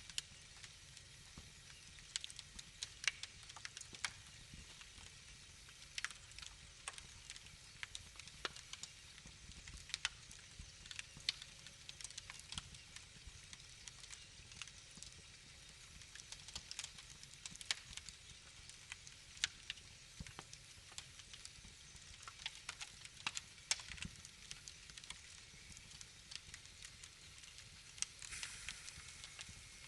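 Fireplace fire crackling: irregular sharp pops and snaps over a faint steady hiss, with the hiss swelling briefly near the end.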